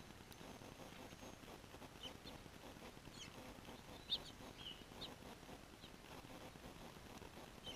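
Faint, scattered short chirps of small birds, a handful spread through the stretch with the loudest about four seconds in, over a low steady hiss.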